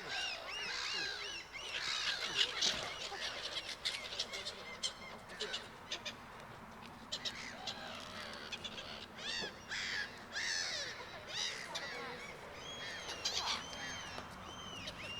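A large flock of birds calling all at once: many short, harsh, arching calls overlap into a dense, continuous chorus.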